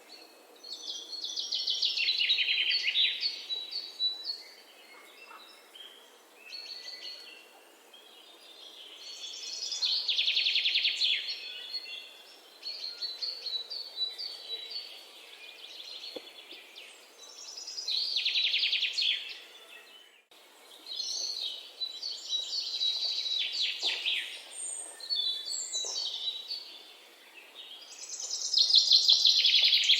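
Songbirds singing: a loud, rapid trilling song phrase comes back about every eight seconds, with softer short chirps and calls in between.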